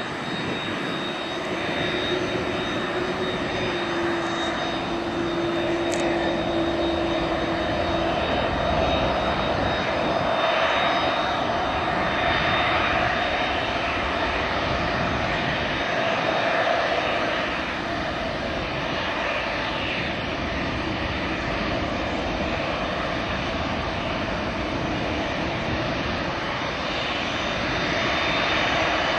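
Cessna 525A CitationJet CJ2 business jet's twin Williams FJ44 turbofans running steadily, a broad jet rush with a thin high whine held throughout.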